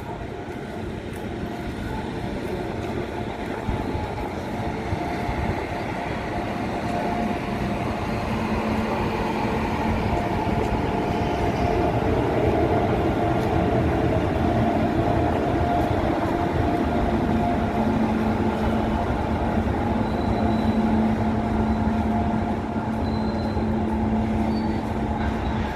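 Indian Railways train running on the track, its rumble growing louder over the first dozen seconds and then holding steady, with a steady drone underneath.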